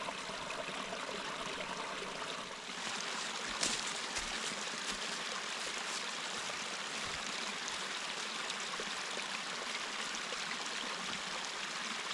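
Steady rush of a small stream of running water, growing a little fuller about three seconds in, with one sharp click shortly after.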